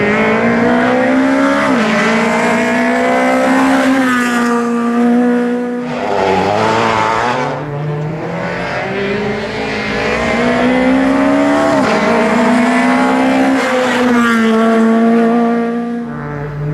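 Rally car engine at full effort, the revs climbing and then falling back sharply several times as the driver changes gear or lifts for corners.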